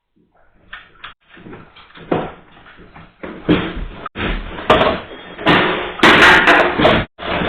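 Room fittings and objects rattling and banging as a strong earthquake shakes the building. It starts as faint scattered knocks and builds into loud continuous clattering with sharp slams.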